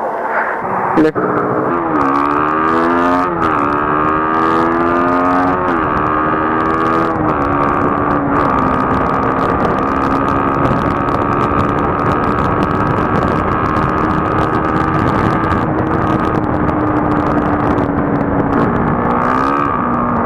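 Motorcycle engine accelerating away, its pitch climbing and dropping back at two upshifts in the first six seconds, then holding a steady cruising note, with one more upshift near the end. Steady wind rush runs under it.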